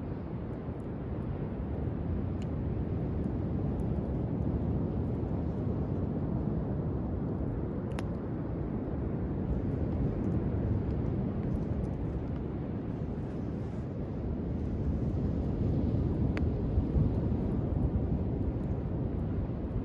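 Low, steady rumble of sea waves and wind that slowly swells and eases, with a few faint sharp crackles from a driftwood fire.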